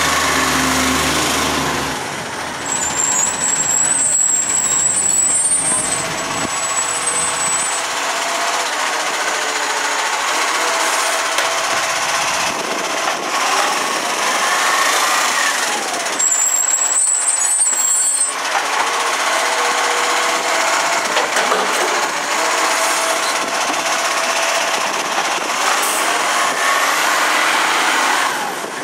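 Side-loader garbage truck at work: its engine rises and falls in pitch in a cycle that repeats about every 12 seconds, with brief high squeals and air-brake sounds.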